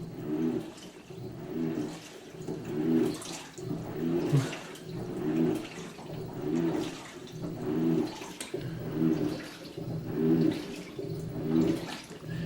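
2006 GE Profile top-loading washer agitating during its rinse: the wash plate's motor runs in regular strokes about once a second, each with a low hum and water swishing in the tub.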